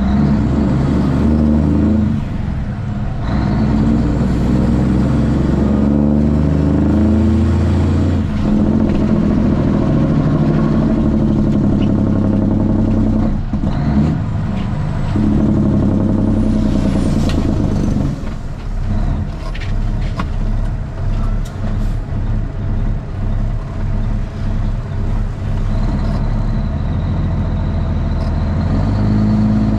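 Straight-piped Cummins ISX inline-six diesel in a heavy truck running loudly. Its pitch rises and falls as the revs change, and the level pulses unevenly in the second half.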